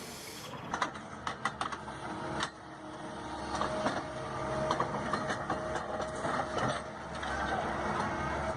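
Machinery: a cluster of sharp clicks and knocks, then a steady low mechanical rumble with a faint whine.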